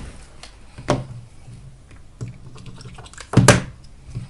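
Scattered light clicks and knocks of hand work with cylindrical lithium-ion cells on a workbench, the loudest knock about three and a half seconds in.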